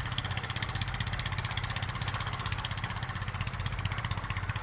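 A small engine running steadily at an even idle-like pace, with a constant hiss over it.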